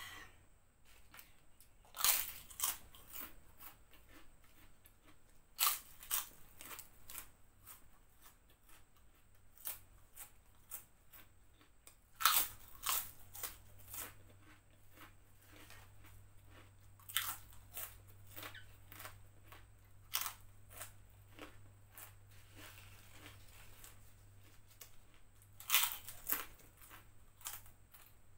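Prawn crackers (kerupuk udang) crunching as they are bitten and chewed close to a clip-on microphone. Loud crisp bites come every three to six seconds, with softer chewing crunches between them.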